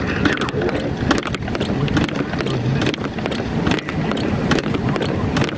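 Blizzard wind rushing steadily, with many irregular sharp clicks.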